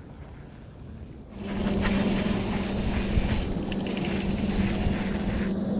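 A boat motor running with a steady hum that starts suddenly about a second and a half in.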